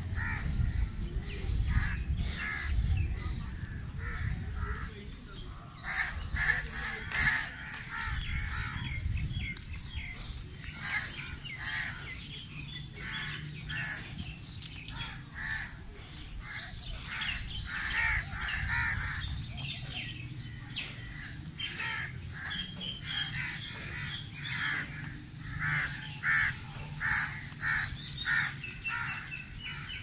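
Many birds calling, short calls overlapping and repeating, ending in a run of loud, evenly spaced calls about two a second.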